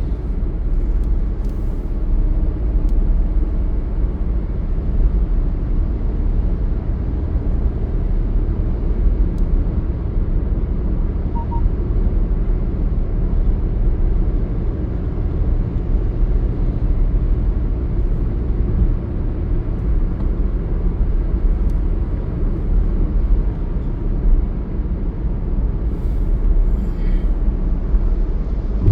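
Steady low road and engine rumble of a moving vehicle, with a few faint clicks.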